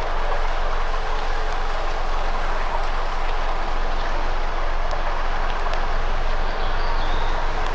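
Campfire burning with a steady hiss and a few faint sharp crackles, plus a brief high squeak near the end.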